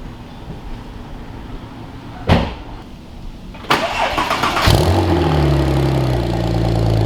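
A knock about two seconds in, then a starter cranks for about a second and a car engine catches and settles into a steady fast idle.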